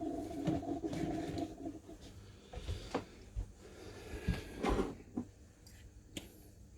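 A steady hum that stops after about a second and a half, then a string of light knocks and clunks as kitchen items such as jars and a bottle are handled and set down on the counter.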